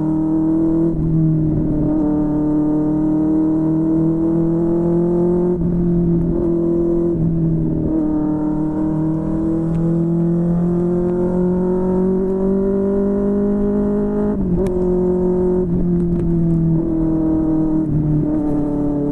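QJMotor SRK600 inline-four engine running through a Yoshimura R11 exhaust under way. The engine note climbs slowly in each gear and drops at each of several gear changes.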